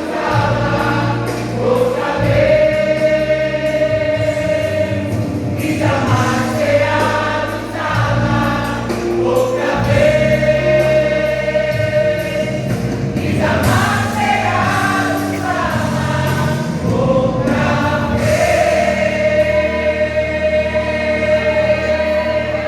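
A gospel vocal group singing a Christian worship song as a choir over instrumental accompaniment, in phrases ending on long held notes.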